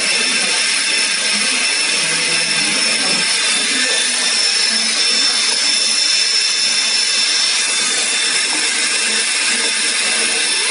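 Motor-generator set, a three-phase drive motor coupled to a DC generator, running steadily: a loud, even whirr with a high steady whine that shifts slightly about halfway through.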